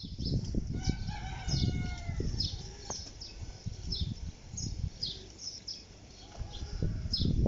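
A drawn-out animal call lasting over a second, with a fainter call near the end, over quick high bird chirps and low rumbling.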